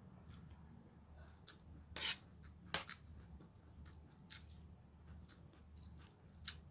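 Close-up chewing of a vegetable salad: soft, wet crunching and small mouth clicks, with two louder crunches about two and three seconds in.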